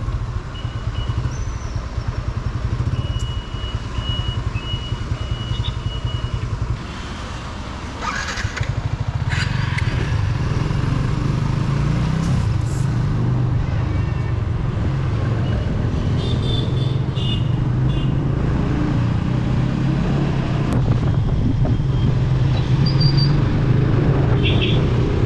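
Motorcycle engine running as the bike pulls away and rides on, growing louder and steadier after several seconds, with a few short high beeps now and then.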